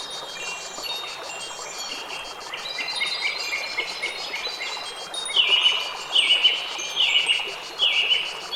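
Wind chimes ringing, many overlapping bright metallic notes that hang and fade, over a soft steady hiss. About five seconds in, four louder clusters of notes sound in an even run, roughly one every 0.8 s.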